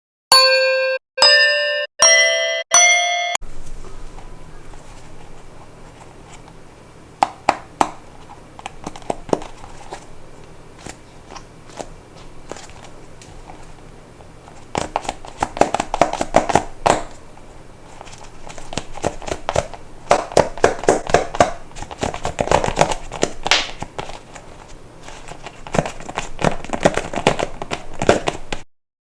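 Four short chime notes, each higher than the last, open the passage. Then colourful spiky balls are rubbed and squeezed together, giving crackly, crinkling rubbing sounds in bursts that grow busier in the middle and near the end.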